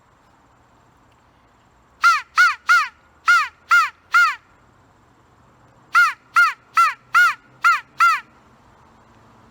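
DIY crow call blown in two quick series of six short caws each, every caw arching up and then down in pitch. The tone is clean, with less rasp than a real crow's caw.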